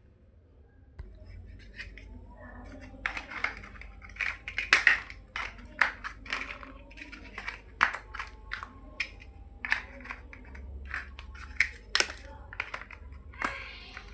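Small plastic building blocks being handled and pressed together: a run of irregular sharp clicks and taps, starting about a second in.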